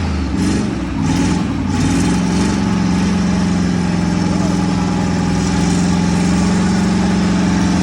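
Car engine running, uneven for about the first two seconds, then held at steady revs with an unchanging note.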